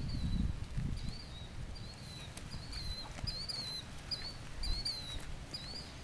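A bird calling over and over: short chirps, about two a second, each a quick dip and rise in pitch. A low rumble underneath fades out in the first second or so.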